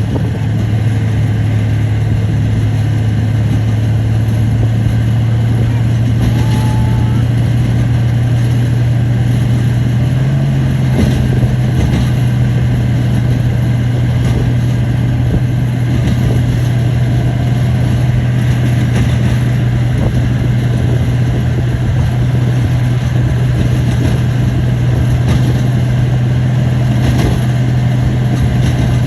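Bulldozer's diesel engine running steadily under load, its pitch stepping up slightly about ten seconds in and then holding.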